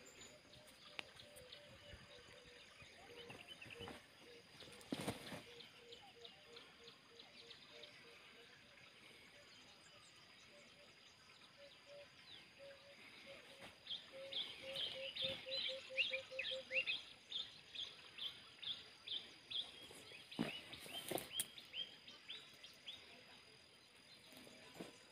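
Wild birds calling: a low short note repeated two or three times a second, then, about halfway through, a loud run of high chirps lasting several seconds. A couple of brief knocks or rustles, one near the start and one near the end.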